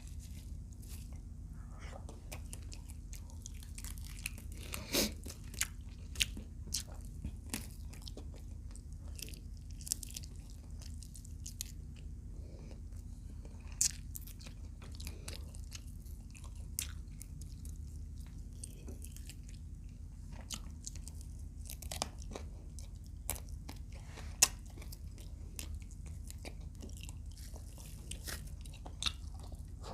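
Close-up eating sounds: chewing and biting fried adobo quail, with scattered sharp crunches and crackles.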